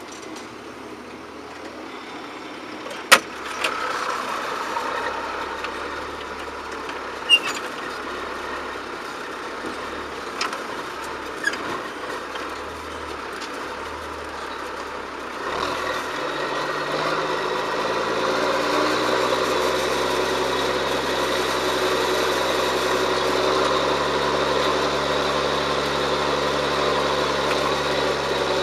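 A few sharp clicks and knocks, the loudest about three seconds in. About halfway through, a John Deere 7710 tractor's six-cylinder diesel engine comes in louder, its revs rising over a few seconds, then runs steadily.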